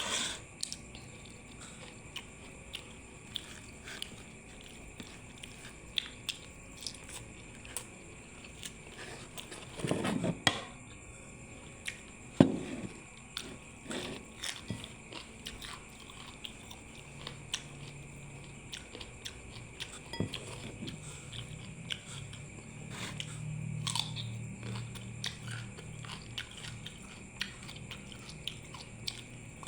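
Close-miked eating: chewing, biting and crunching of steamed chicken and raw lalapan vegetables. Many small mouth clicks run through it, with louder bites about ten and twelve seconds in.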